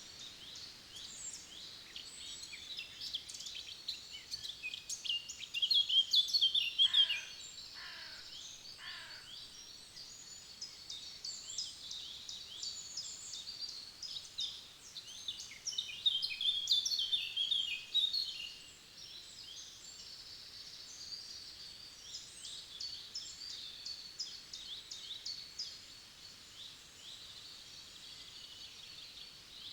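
Several forest songbirds singing and chirping at once in a steady chorus of high twittering phrases. It swells into louder bursts of song around six and again around sixteen to eighteen seconds in. About seven to nine seconds in come three lower calls, each falling steeply in pitch.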